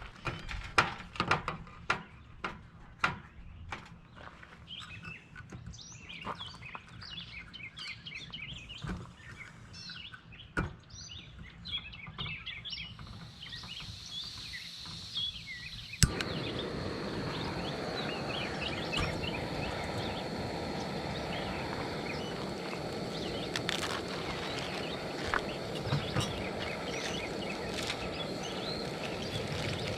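Small birds chirping and singing, with scattered sharp knocks and clicks in the first half. About halfway through, a steady rushing noise sets in under the birdsong.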